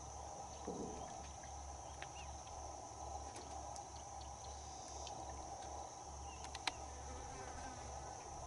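Insects droning steadily in a high, even whine, faint, with scattered small clicks and one sharper tick near the end.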